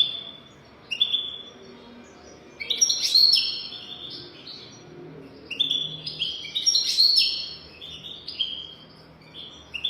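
European goldfinch singing: quick twittering runs of chirps, busiest about three and seven seconds in.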